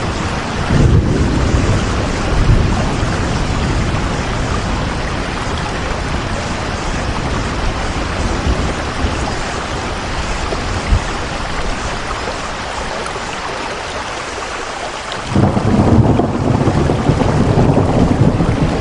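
Steady heavy rain with a deep rumbling underneath, like rolling thunder. The rumble fades somewhat, then comes back suddenly and louder about fifteen seconds in.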